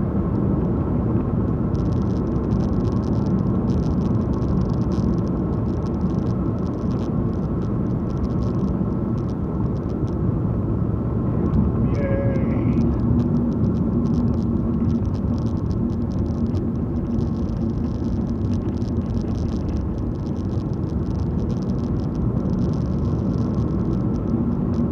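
Car driving at steady speed: continuous engine and tyre road noise, a low even rumble heard from inside the car.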